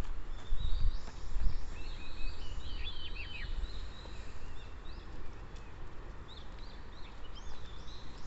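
Small songbirds singing, with quick series of high chirping and whistled notes that are busiest in the first few seconds and sparser later. A low, uneven rumble runs underneath, strongest near the start.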